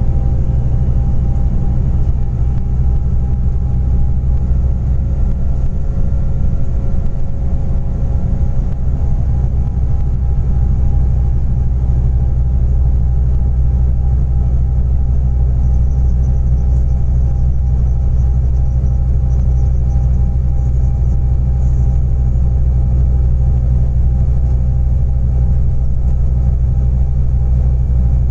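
Scania Interlink coach running on natural gas (GNV) at a steady pace: a continuous deep engine and road rumble with a faint steady whine above it.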